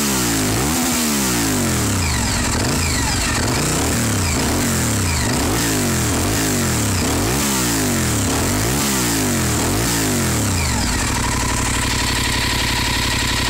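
Honda VTR1000 Firestorm's 90-degree V-twin, through a BSM Vampire aftermarket exhaust, revved again and again in quick throttle blips, about eight rises and falls in pitch. It settles to a steady idle about eleven seconds in.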